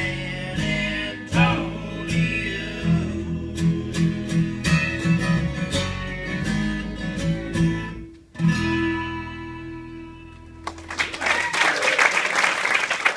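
Acoustic folk string band with guitar playing the last bars of a song, dropping out briefly about eight seconds in, then ending on a held, ringing chord. Near the end, audience applause takes over.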